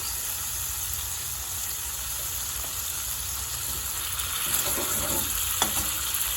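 Chicken pieces and spices frying in hot oil in a curry pan, a steady sizzle as the spice cooks, with a brief knock a little past five seconds in.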